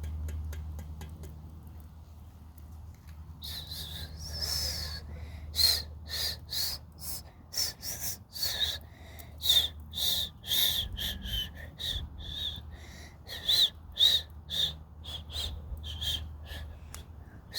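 Campfire burning: a few faint crackles, then from about three seconds in, rapid irregular pulses of high-pitched hissing whistles from the burning wood.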